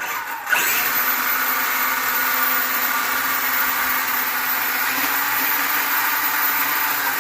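Twin HSD 120 mm electric ducted fans on a 1/5 scale RC jet truck, run on 12S, fired up on the bench. They jump to high power about half a second in and run steadily with a loud rushing whine, easing slightly near the end.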